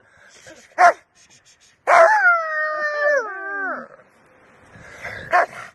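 A dog gives a short bark, then one long howl of about two seconds that slides down in pitch, and barks again near the end.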